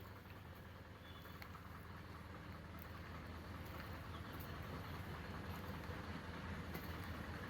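Faint, steady low hum of an idling engine in the background, with a light hiss over it.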